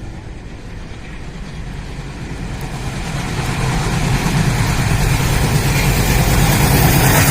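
Diesel engines of a WDM-3A and a WDM-3D locomotive working together on an approaching train, a low engine rumble growing steadily louder.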